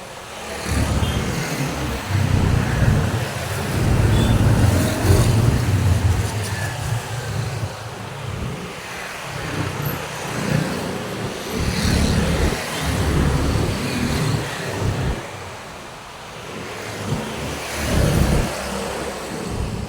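Road traffic: vehicles passing one after another on a main road, each swelling and fading, over a steady road hum. The loudest passes come about four seconds in and again near the end.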